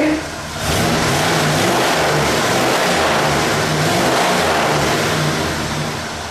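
1979 Chevrolet Caprice's engine revved up about half a second in and held at higher revs for about five seconds, its pitch wavering, then easing back toward idle near the end.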